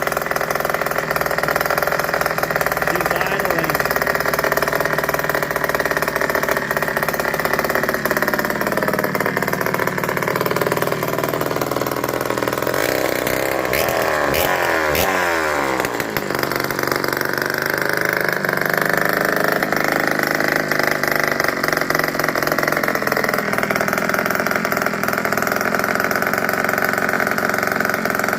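1978 Yamaha DT100's single-cylinder two-stroke engine running, its pitch falling and rising several times as the throttle is worked, with a busier, louder stretch about halfway through.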